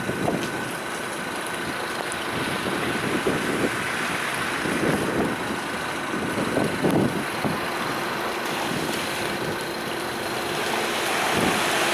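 Motor vehicle running, a steady engine and road noise with irregular swells every second or two.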